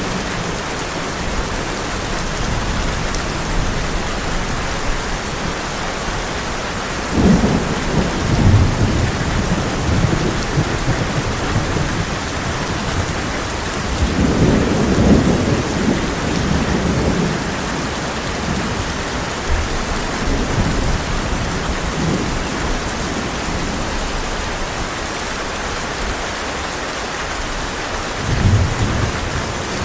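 Heavy rain drumming steadily on a tin roof, with rolls of thunder rumbling low three times: about seven seconds in, around the middle, and again near the end.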